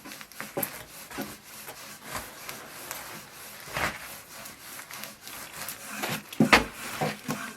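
Irregular scraping and knocking on wood, with one louder knock about six and a half seconds in.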